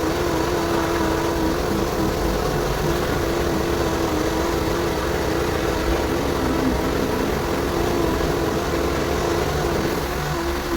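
A motor running steadily with a slightly wavering hum, without a break.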